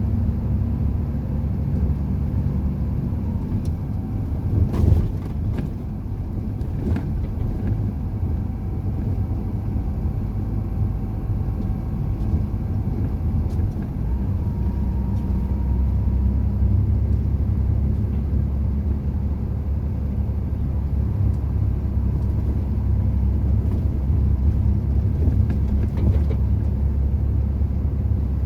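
Truck engine and road noise while driving, a steady low drone, with a single knock about five seconds in.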